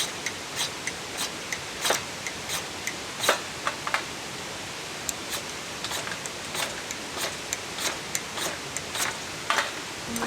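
Wood fire crackling in a fire pit: irregular sharp pops and snaps over a steady hiss.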